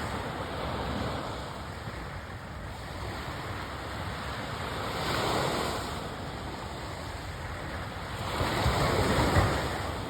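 Surf breaking on a beach: a steady wash of waves that swells twice, about halfway through and again near the end.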